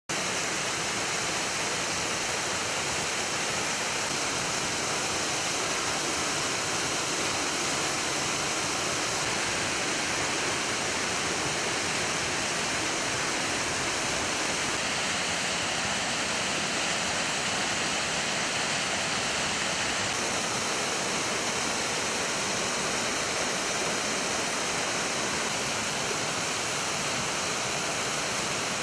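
Waterfall running, a steady rush of falling and splashing water.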